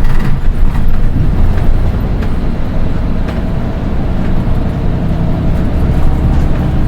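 Interior running sound of a Nissan Diesel Space Runner RM820 city bus: a steady low diesel engine and drivetrain rumble. A thin steady whine comes in about two to three seconds in; this bus is known for an unusually high-pitched engine note.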